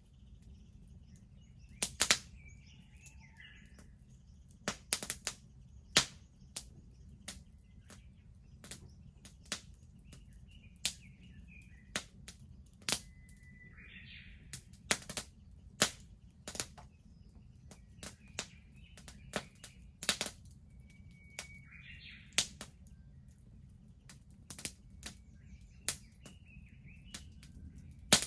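Wood fire crackling with irregular sharp pops and snaps, a few much louder than the rest. A bird calls faintly several times.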